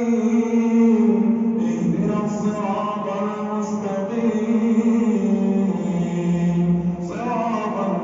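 A man's voice reciting the Quran in melodic tajweed style, holding long, slowly ornamented notes. The phrase breaks off about seven seconds in and a new one begins.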